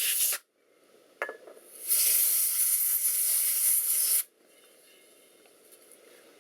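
Canned compressed-air duster spraying in two hissing bursts, a brief one at the start and a longer one of about two seconds, with a single click between them.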